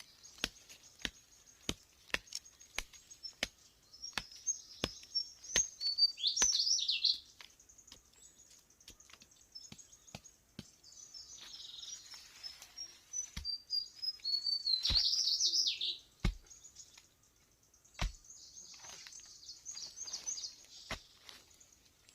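Birds chirping and singing in quick high phrases, loudest in two bursts near the middle. Under them runs a regular series of sharp knocks, roughly two a second.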